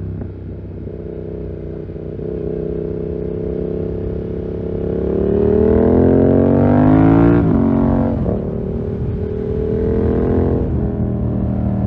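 2020 Yamaha MT-07's parallel-twin engine running through a full SC-Project 2-1 exhaust while riding. It holds steady, then revs up over about two seconds and drops sharply a little over seven seconds in, at a shift or throttle close. It dips again about a second before the end.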